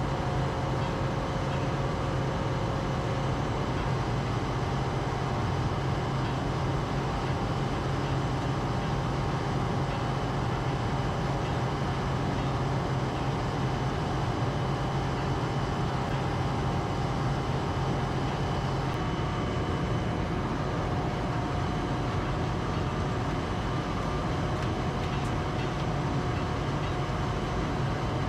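A motor running steadily with a constant low hum; the hum's pitch shifts about two-thirds of the way through.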